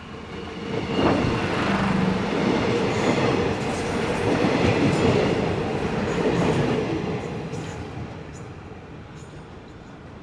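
Daewoo diesel railcar set running past on the bridge: a loud rail rumble with a steady hum swells about a second in, holds for several seconds, then fades away as the train recedes.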